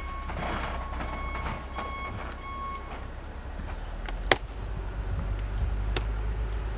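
A snow-plowing machine's engine running with a low rumble that grows louder about two-thirds of the way in. During the first few seconds an intermittent beeping, like a reversing alarm, sounds over it. A single sharp click comes a little past the middle.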